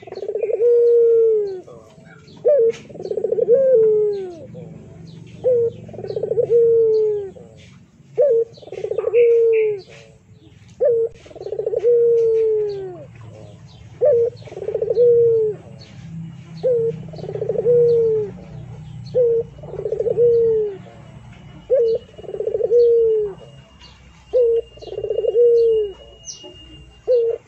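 A dove cooing over and over, a short note followed by a longer bending coo, about every two and a half seconds, with small birds chirping faintly behind.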